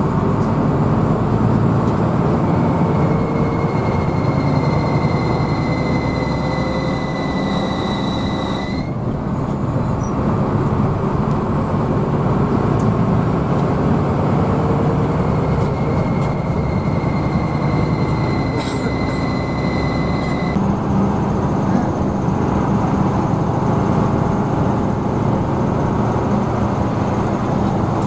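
Hino AK bus running on the road, heard from inside the cabin: a steady engine and road rumble. A thin high whine comes in twice for several seconds, sliding slightly down in pitch and cutting off suddenly each time.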